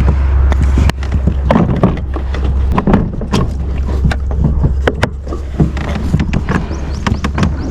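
Pedal kayak under way: a steady low rumble that cuts out briefly about a second in and again near three seconds, with frequent small knocks and clicks from the hull and gear.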